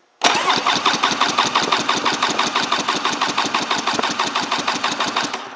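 Electric starter cranking the 2003 Polaris Virage I 800 two-stroke twin for a compression test on the PTO-side cylinder, with an even, rapid rhythmic chugging that starts a quarter second in and stops near the end. The test gives a strong 160 PSI reading.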